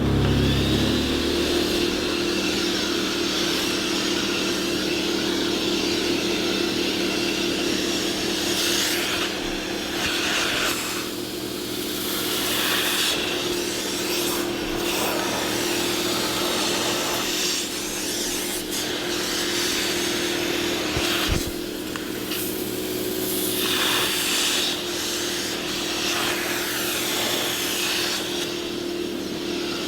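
An electric motor spins up and then runs at a steady pitch throughout. Scrubbing, rubbing noise comes and goes over it in strokes a second or two long, like a powered brush worked over car upholstery, with a single knock about two-thirds of the way through.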